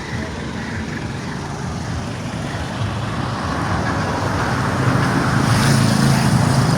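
Motor vehicle engine running with road noise, growing louder over the last couple of seconds.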